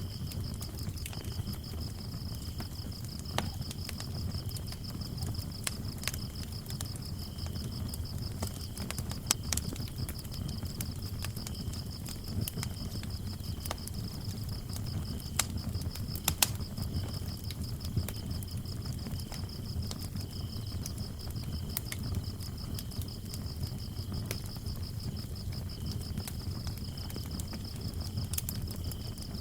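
Wood fire crackling, with sharp pops now and then over a low steady rumble of flames, while crickets chirp in a fast, steady high trill; a second, lower-pitched cricket chirps in bouts.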